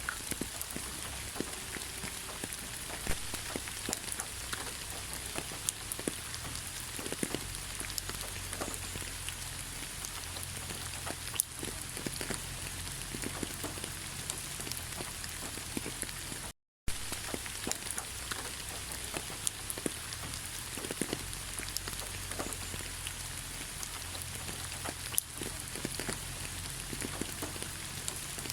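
Steady rain falling, an even hiss with many separate drops ticking close by. The sound cuts out completely for a moment a little past halfway, then resumes unchanged.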